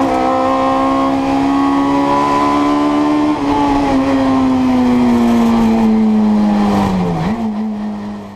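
Fiat 128 Coupé's four-cylinder engine racing at high revs, heard from inside the cabin. Its pitch holds steady, then sinks slowly over several seconds, with a brief dip near the end before it settles. The sound fades out at the very end.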